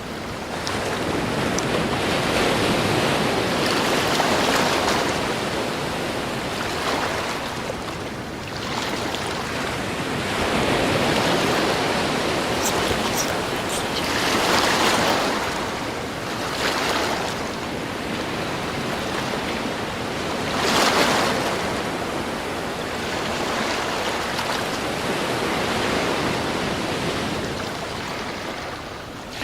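Ocean waves breaking and washing up on the shore, the surf swelling and ebbing every few seconds, with the loudest break about 21 seconds in.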